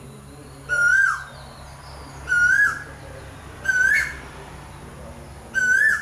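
A bird calling: a short, loud whistled note that swoops up and then drops, repeated four times about every second and a half.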